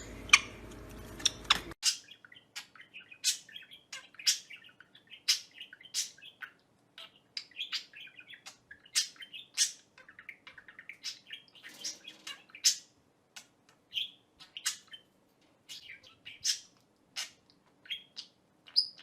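Birds chirping: short, sharp, high chirps, one or two a second, irregular and without a break.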